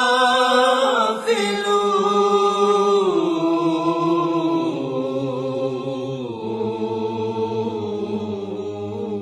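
Wordless chanted vocal drone, voices held on long sustained notes that shift pitch a few times, in the style of an a cappella nasheed.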